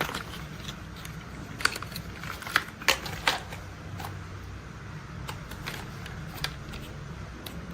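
Toy construction vehicles being handled: a few sharp clicks and clacks, clustered in the first half and one more near the end, over a low steady hum.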